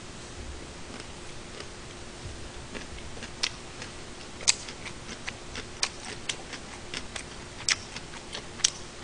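A person chewing a mouthful of gimbap with the mouth closed, making irregular sharp clicks and smacks that start about three seconds in.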